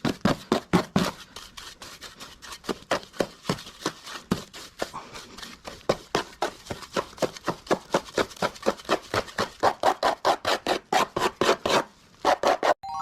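A hand tool working a hard surface in rapid, even scraping or tapping strokes, about four to five a second, with a brief pause near the end.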